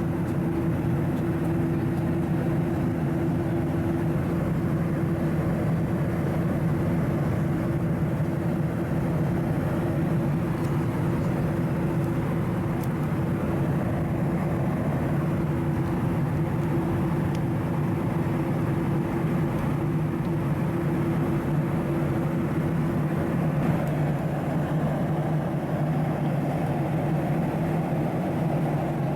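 Boeing 737-700 in flight: a steady drone of engines and airflow with a constant low hum, unchanging throughout.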